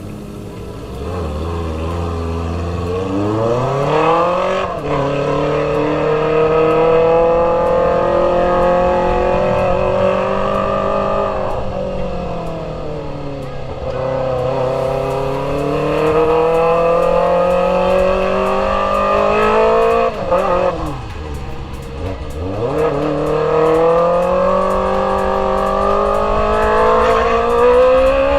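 Kawasaki ZX-25R's 250 cc inline-four engine through an Akrapovic GP Evolution exhaust, being ridden hard. The engine note climbs in pitch and drops sharply about five seconds in as a gear is changed, falls away in the middle as it slows, then climbs again, with a quick dip and rise about three quarters of the way through.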